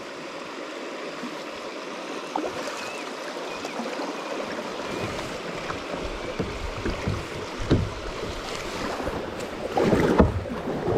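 Kayak on a river: rushing water around the hull grows steadily louder as it heads into fast water. Paddle splashes and knocks come in irregularly from about halfway, with a louder burst of splashing near the end.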